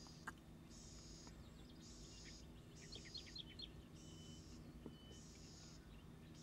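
Faint outdoor ambience: a high buzz repeating about once a second, with a quick run of small chirps about three seconds in. No raven call is heard.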